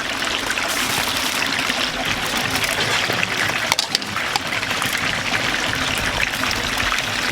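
Chicken deep-frying in hot oil: a steady crackling sizzle with many sharp pops.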